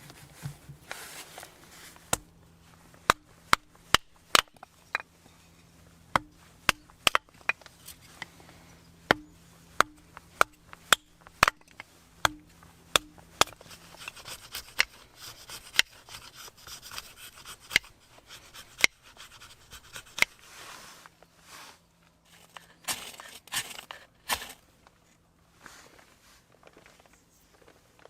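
Sharp knocks at irregular intervals, about one or two a second, with stretches of scraping between them: hand work on wood.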